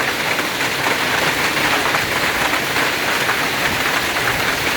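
Heavy rain and hail falling hard, a dense steady hiss packed with many small hailstone impacts.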